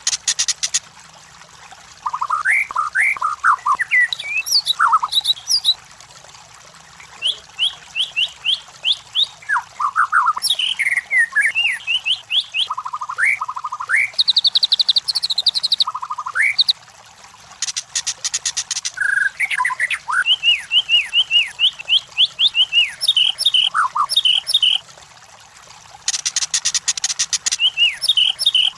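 White-rumped shama (murai batu) singing a long, varied song of quick whistled notes, slurred slides and short trills in phrases broken by brief pauses. Rapid dry rattles come near the start, around the middle and near the end.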